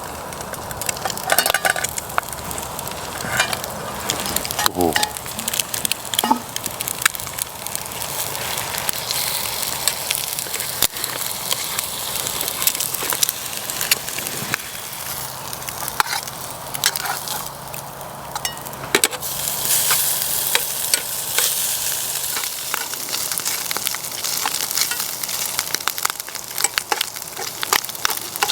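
Bacon and eggs sizzling in a frying pan over a wood fire, with frequent sharp crackles and pops through a steady hiss.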